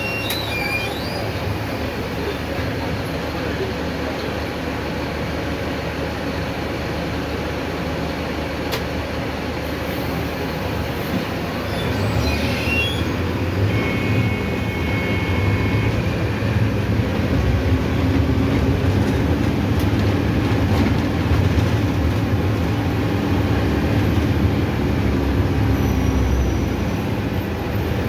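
Mercedes-Benz OF-1519 city bus under way: steady road and body noise. From about twelve seconds in, its diesel engine runs louder and holds a steady drone until it eases off near the end.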